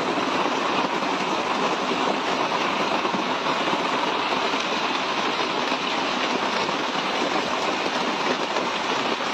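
Hail pelting down in a dense, steady clatter with no letup.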